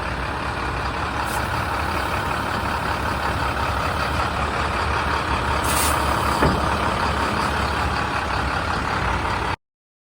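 A 2009 International 7400 truck's diesel engine running steadily, with a short hiss of air about six seconds in.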